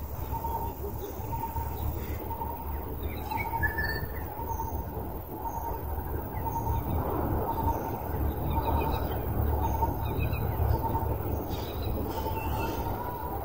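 Birds calling outdoors: one bird repeats a short, even note roughly every 0.7 seconds, while others add scattered higher chirps, over a low steady rumble.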